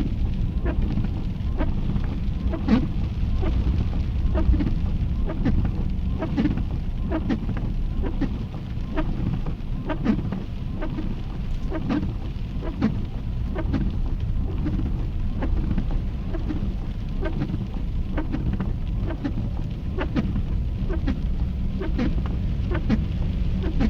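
Swollen river in flood rushing past with a deep, continuous rumble, and many short sharp clicks scattered through it.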